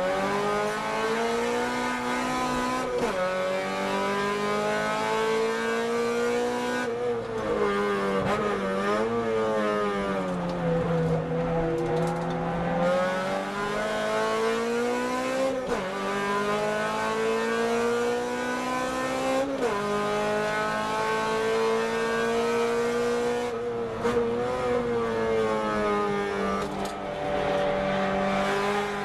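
Car engine driven hard at track speed, its pitch climbing and dropping with the throttle and breaking off at several gear changes, heard from inside a car.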